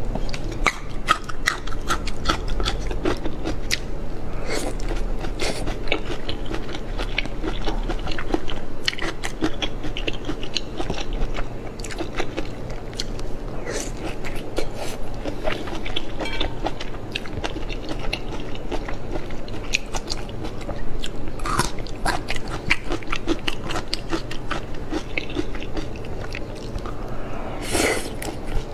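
Close-miked eating sounds of prawns in chili-garlic sauce being bitten and chewed: wet chewing and sucking with many small sharp clicks throughout.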